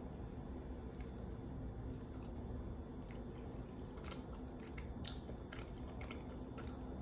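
A person chewing food, with scattered faint wet mouth clicks and smacks over a low steady hum.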